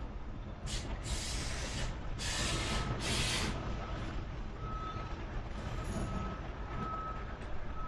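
A high electronic beep repeating about once a second over a steady low rumble, with three loud hisses of rushing air about a second in.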